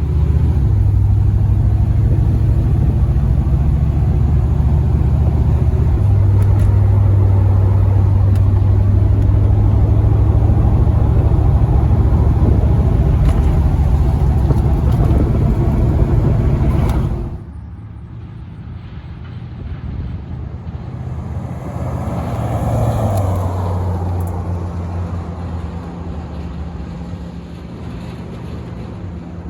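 1980 Chevrolet Corvette L82's 350 small-block V8 running loud and steady, then cutting abruptly about 17 seconds in to a quieter engine sound that swells and fades once a few seconds later.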